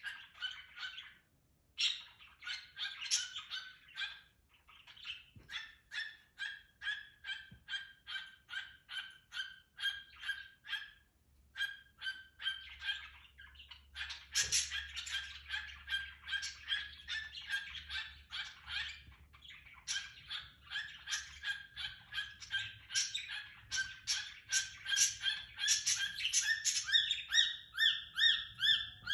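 Cockatiel singing: a long run of short repeated chirps, about three a second, broken by a few brief pauses. The chirps grow louder about halfway through and turn into rising whistled notes near the end.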